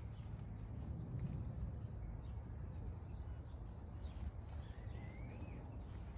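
Small birds chirping outdoors: short high chirps every second or so, and one call that rises and falls about five seconds in, over a low steady rumble.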